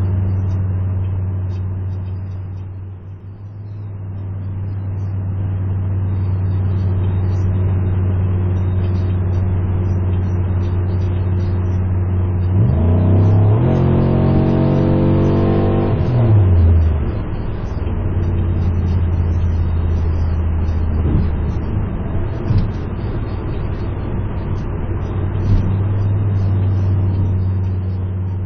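A 2006 Pontiac Grand Prix GXP's V8 cruising at highway speed, heard inside the cabin as a steady low drone through an exhaust with the catalytic converter and mufflers removed and only the factory resonator left. About halfway through, the engine revs rise briefly and then fall back to cruise.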